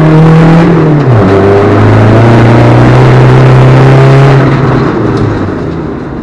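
Alfa Romeo 147 JTD's 1.9-litre four-cylinder turbodiesel pulling hard under racing throttle. Its pitch drops at an upshift about a second in, then holds steady, before the engine eases off from about four and a half seconds and the sound fades.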